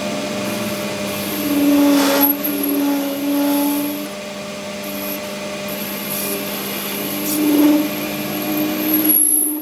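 A machine motor running with a steady hum and a higher tone that swells about two seconds in and again near the end, then drops away sharply just before the end.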